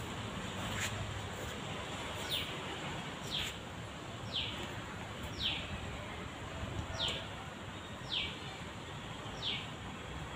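A bird calling over and over: a short high note that falls in pitch, repeated about once a second, over steady background noise.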